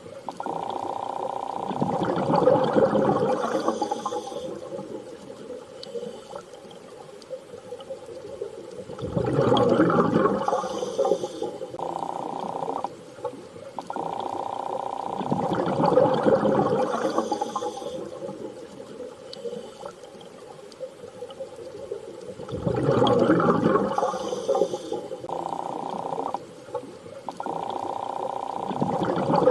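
Underwater-style water ambience: surges of water swell and fade about every seven seconds over a steady hum, in a repeating pattern.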